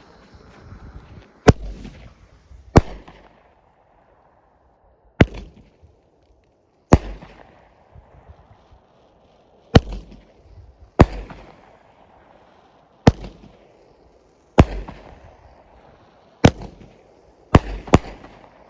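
Nine-shot consumer firework cake firing: about eleven sharp bangs spaced one to three seconds apart, each fading off quickly, with the last two coming close together near the end.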